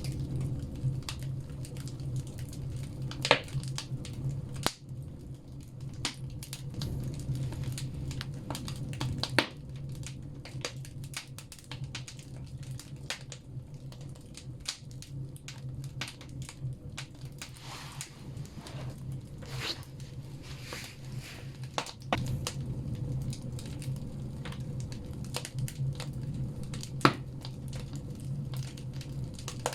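Firewood logs burning in a banya wood stove, crackling with irregular snaps and a few louder pops over a low, steady rumble.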